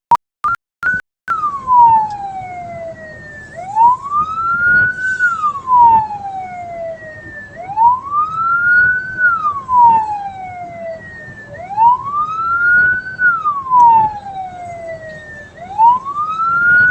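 Electronic vehicle siren wailing slowly, its pitch sweeping up and then falling more gradually about every four seconds. The sound cuts out a few times in the first second.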